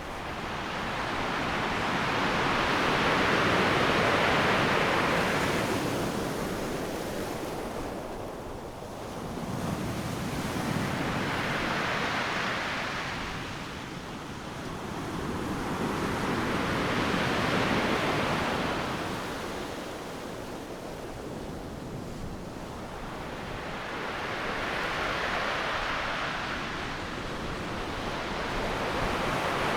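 Ocean surf breaking on a sandy beach. The waves come in as swelling, then fading rushes of noise about every seven to eight seconds: four crashes, with a fifth building near the end.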